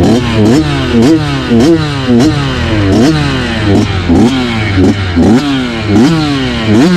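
Two-stroke enduro dirt bike engine revved in quick throttle blips, its pitch jumping up and falling away about twice a second, with light knocks and clatter from the bike.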